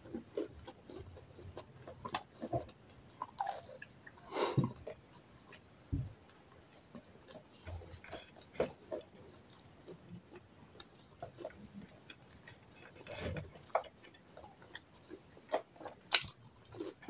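Fried samosas being eaten close to the microphone: irregular bites and chewing of the pastry, with a few sharper crackles standing out.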